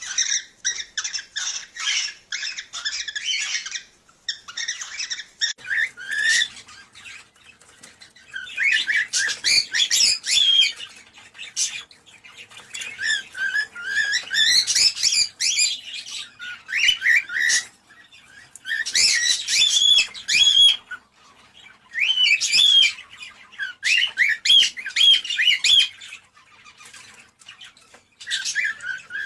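Cockatiels chirping and whistling in rapid bouts a few seconds long, with short pauses between them. These are breeding calls, used to stimulate cockatiels to mate.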